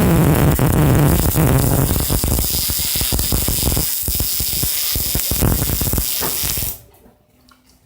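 Electric arc welding: the arc crackles and hisses steadily with a low hum, then cuts off abruptly about seven seconds in as the arc is broken.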